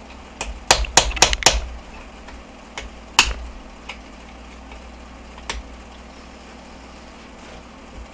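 Sharp metal clicks and taps of gearbox parts being handled and fitted onto the shaft: a quick run of about five around a second in, then a few scattered ones.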